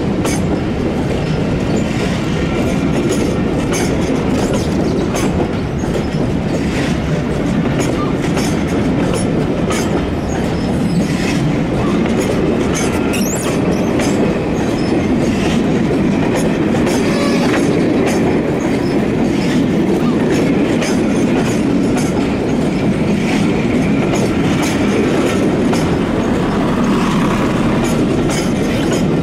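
A train running on the rails, steady and loud, with its wheels clicking repeatedly over the rail joints.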